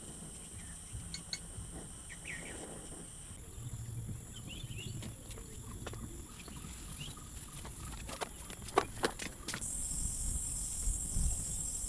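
Forest ambience: insects keep up a steady high-pitched drone, with a few short bird chirps. A quick cluster of sharp clicks or knocks comes near the end.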